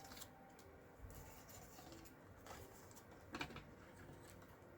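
Near silence: room tone, with one brief faint rustle of paper handling about three and a half seconds in.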